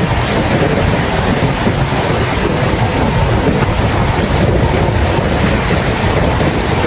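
Steady heavy rain: a dense, even hiss of drops with a constant low rumble beneath it.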